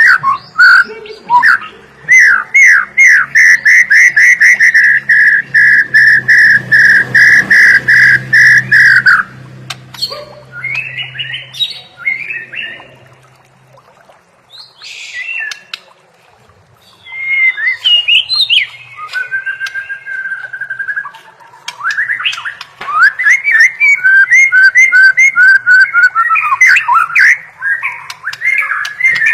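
White-rumped shama (murai batu) singing a varied masteran song, with long runs of fast repeated whistled notes broken by a short quieter pause midway.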